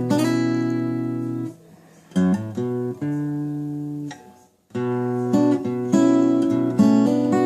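Acoustic guitar, capoed at the second fret in standard tuning, playing an instrumental tune: chords struck and left to ring, a short phrase of picked notes, a brief break about four and a half seconds in, then more chords.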